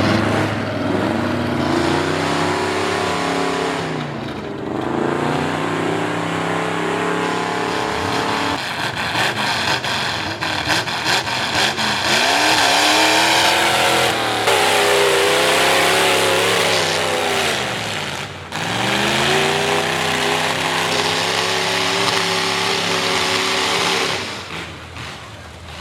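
A V8 Ford mud truck with open upright headers runs hard, its revs climbing and then falling back several times as the throttle is worked and gears are shifted. For a few seconds in the middle, a harsher, hissing noise covers the engine note.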